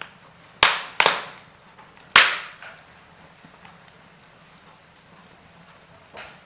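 Wood fire in a fireplace crackling: three sharp, loud pops in the first couple of seconds, then a faint hiss and one softer pop near the end.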